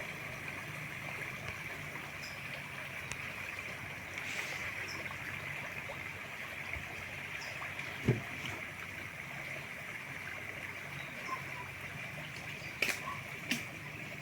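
Steady flow of river water, with a sharp knock about eight seconds in and two more near the end.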